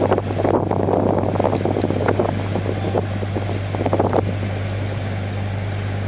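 Car ferry's engines running with a steady low hum as it comes in to berth, with gusty wind buffeting the microphone until about four seconds in.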